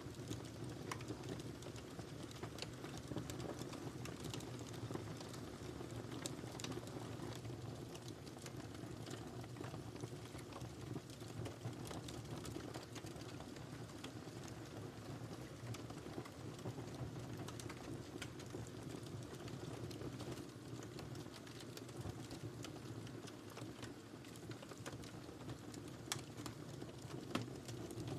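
Wood fire in a fireplace crackling: irregular sharp pops and snaps over a steady low rush of the burning flames.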